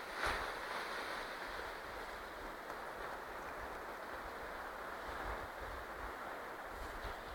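Sea surf washing on the shore, a steady rush with a brief swell just after the start, and wind rumbling on the microphone.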